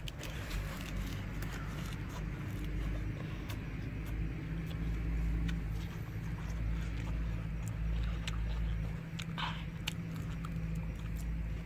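Someone chewing and crunching a mouthful of grilled tiger prawn, with many small sharp clicks and mouth sounds over a steady low rumble.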